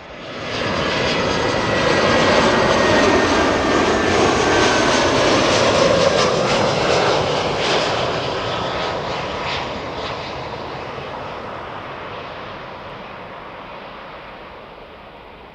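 Jet airliner's engines passing close by: a loud rush with a few steady high whines on top. It starts abruptly, is loudest for the first several seconds, then fades steadily away.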